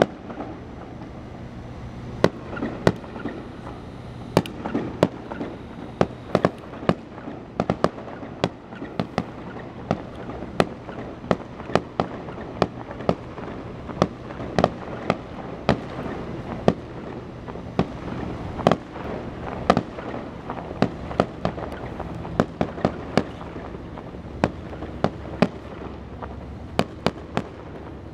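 Fireworks display finale: aerial shells bursting in quick, irregular succession, sharp bangs about two a second.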